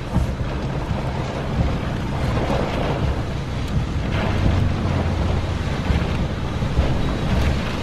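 Gusty storm wind rushing and buffeting the microphone through an open car window, a steady loud rush with a heavy low rumble.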